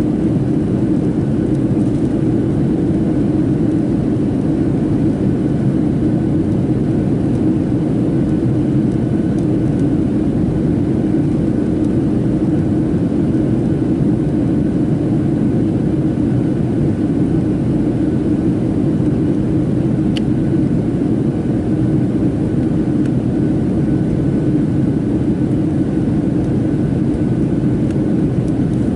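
Steady cabin roar of a Boeing 737-700 in flight: its CFM56-7B engines and the rush of air along the fuselage, unchanging, with a faint steady whine above it.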